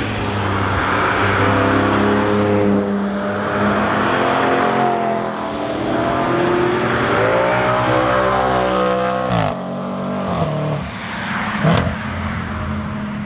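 Several cars accelerating through a winding section of racetrack, their engines overlapping and rising and falling in pitch with gear changes. One engine drops sharply in pitch about nine seconds in, and a short sharp crack is heard near the end.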